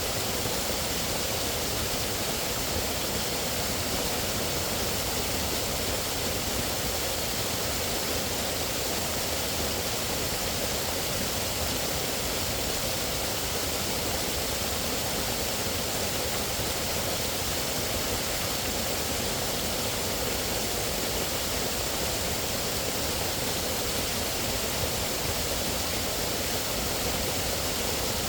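Steady rushing of flowing water, an even, unbroken roar like a waterfall or fast stream.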